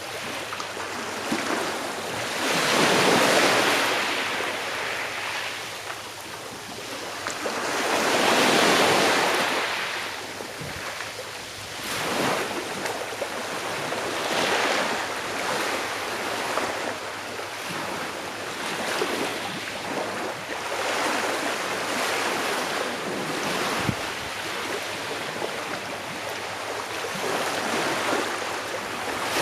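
Small sea waves breaking and washing up on a shore, each swell of surf rising and falling away every few seconds, the two largest near the start, with wind noise underneath.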